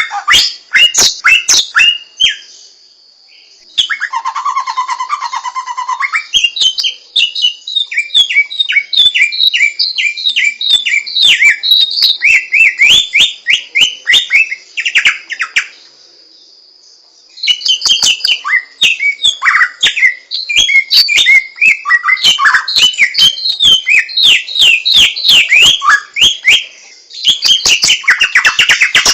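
Samyong songbird singing: long, fast runs of loud sweeping whistled notes, broken by two short pauses. About four seconds in there is a harsher, buzzier lower call. A faint steady high tone runs beneath the song.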